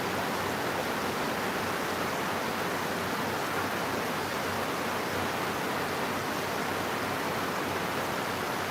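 Steady rain, an even unbroken hiss with no single drops or other sounds standing out.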